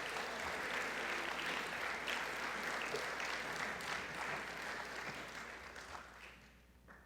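Audience applause, a steady patter of many hands clapping that fades out over the last two seconds.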